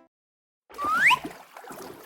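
Cartoon water sound effect: a rush of splashing, flowing water starts under a second in, with a short rising whistle over it, then settles to a softer trickle.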